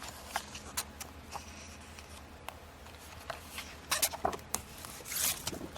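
Paper handling: brochure pages being turned and shuffled, with scattered sharp clicks and short rustles, busier near the end.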